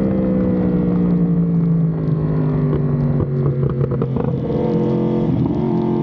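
Yamaha R1M's crossplane inline-four through an SC-Project exhaust, running under way at a steady high pitch. The pitch sags slightly over the first couple of seconds, goes rough and uneven briefly in the middle, then settles again.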